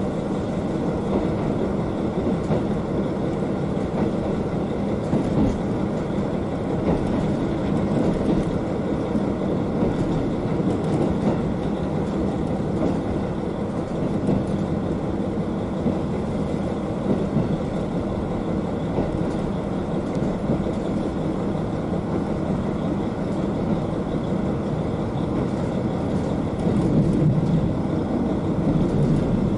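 KiHa 40 diesel railcar's N-DMF13HZI diesel engine heard from directly above it, running steadily under the floor along with the wheels on the rails. The drone grows a little louder near the end.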